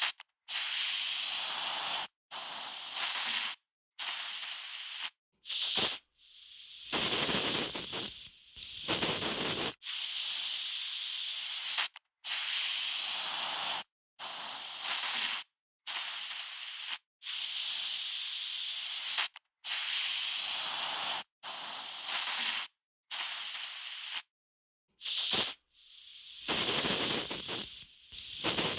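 Aerosol spray can spraying in a series of short bursts of hiss, each from about half a second to two seconds long, cutting off sharply between sprays.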